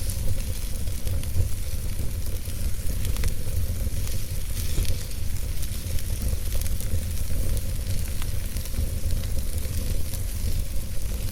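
Logs burning in a fireplace: a steady low rumble and hiss with scattered sharp crackles and pops.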